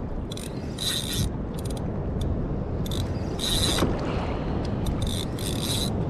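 Fishing reel drag paying out line in about six short buzzing runs as a hooked fish pulls, over steady wind and water noise.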